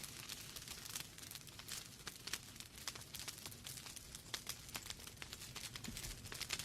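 Wood fire burning in a fireplace: logs crackling and popping with irregular sharp snaps over a steady low hiss.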